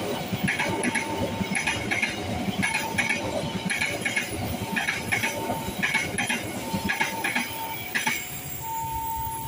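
A passenger train's wheels clatter over rail joints in quick double clicks about once a second as the carriages roll past. The clatter stops about 8 seconds in as the last car clears. Throughout, the level crossing's electronic warning tone sounds on and off, and near the end it switches to alternating between two pitches.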